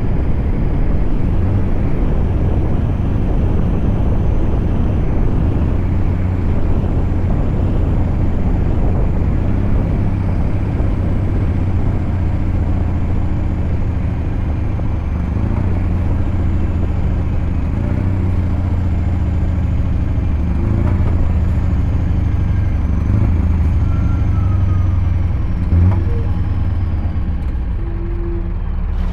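Scania V8 diesel truck engine running steadily under way, a continuous low drone that holds its pitch, with a faint thin high whine drifting slowly above it.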